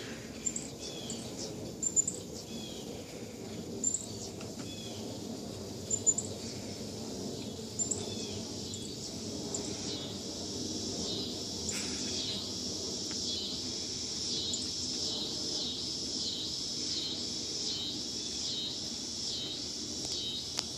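Outdoor ambience: a bird chirps briefly about every two seconds. From about ten seconds in, a steady pulsing insect chorus comes up and carries on.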